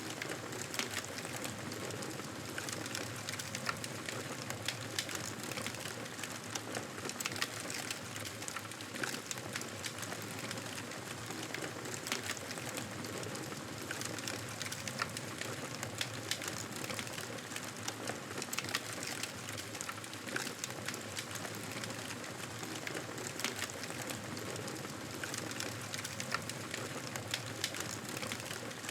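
Wood fire crackling and popping steadily, with frequent irregular sharp snaps over a constant hiss of burning.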